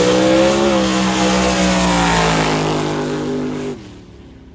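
Drag-racing vehicle's engine at full throttle down the strip, a loud, steady note rising slightly in pitch over the first second and then holding. It cuts off abruptly near the end.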